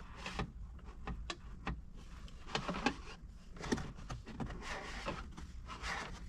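Irregular clicks, taps and scraping of a cable being fished through plastic interior trim and along the headliner edge by hand.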